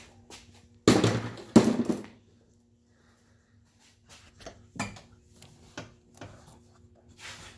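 Parts being handled in a truck's engine bay: two loud clattering knocks about a second in, less than a second apart, then scattered light clicks and taps.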